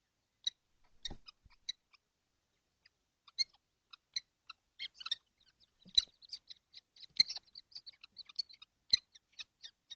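Young kestrels in a nest box giving short, high chirping calls, sparse at first and coming several a second from about three seconds in. A few dull knocks come from the birds moving against the box.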